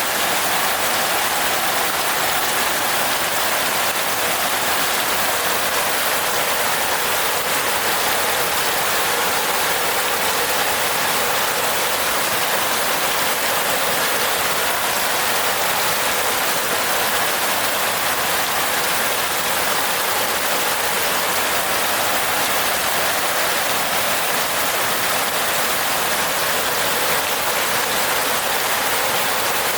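Steady rain falling on a roof, an even hiss of raindrops without a break.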